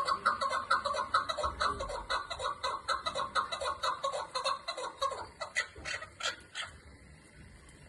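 Chukar partridge calling: a fast run of repeated clucking notes, about four a second, that breaks into a few sharper separate notes between about five and six and a half seconds in, then stops.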